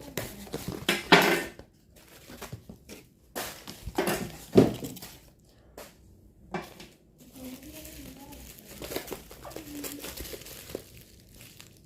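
Plastic packaging crinkling and rustling in irregular bursts as it is handled and opened. It is loudest about a second in and again midway, and quieter in the second half.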